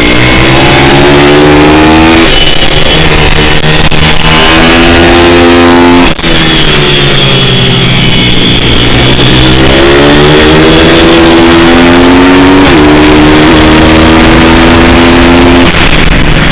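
Loud single-cylinder pit bike engine under hard acceleration, revving up and shifting up through the gears, backing off about six seconds in and slowing, then accelerating hard again before easing off near the end.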